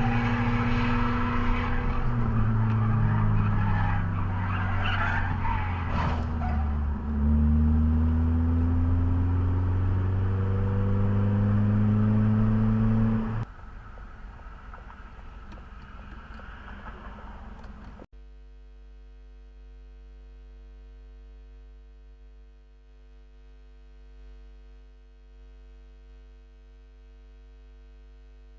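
A car's engine running loud, its pitch holding and then rising, with a skid or tyre squeal. About 13 seconds in it cuts to quieter road noise, and a few seconds later to a steady electrical hum.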